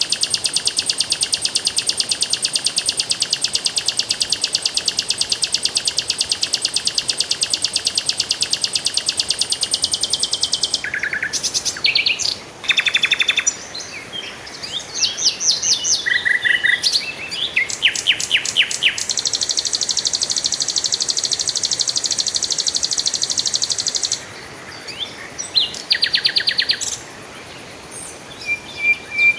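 Songbirds singing: long, very fast high-pitched trills broken by shorter varied chirps and phrases.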